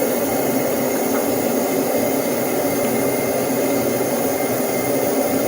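Steady whooshing noise of a running machine, with an even low hum under it.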